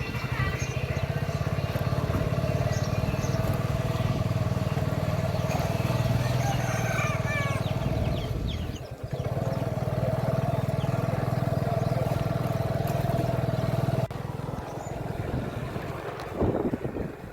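An engine running steadily, with a brief dip partway through, then dropping away about fourteen seconds in.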